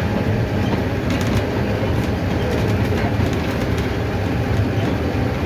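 Mercedes-Benz OF-1519 city bus's diesel engine and running gear, a steady low rumble while driving, with a few light clicks and rattles.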